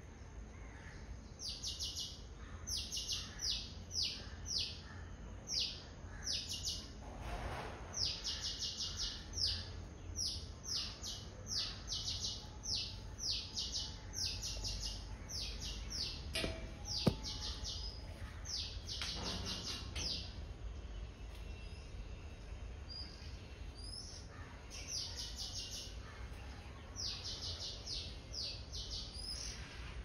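Bulbuls chirping in quick runs of short, high, falling notes, thick through the first two-thirds and sparser near the end. A single sharp click comes about 17 seconds in.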